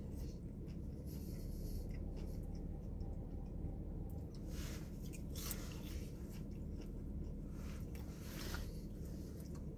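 A man chewing KFC French fries with his mouth closed: soft, irregular chewing and munching noises, clearest around a second in, midway and near the end, over a steady low hum inside a car.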